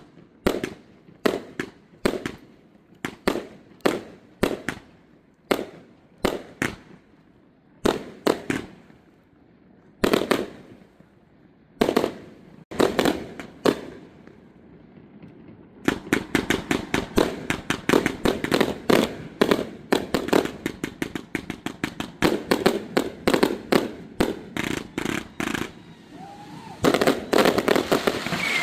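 Aerial fireworks going off as sharp bangs, about one a second at first, thinning out, then a dense rapid barrage of reports from about halfway through.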